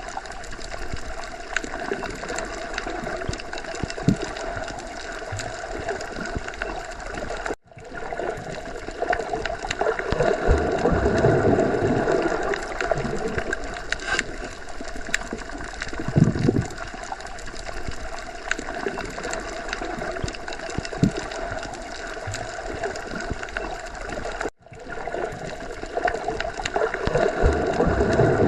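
Underwater ocean ambience: a continuous wash of water noise with occasional low thuds, swelling louder about a third of the way in and again near the end. It cuts out briefly twice, about a quarter of the way in and again near the end.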